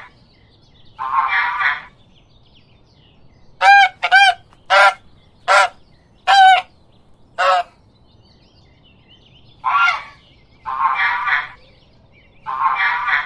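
Goose honking: a harsh, rasping call about a second in, then a quick run of six short honks, then three more harsh calls near the end.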